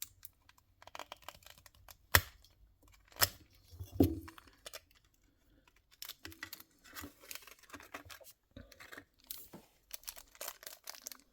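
Knife cutting open packaging, with plastic and card being torn and crinkled: a run of irregular crackles, clicks and a few sharper knocks.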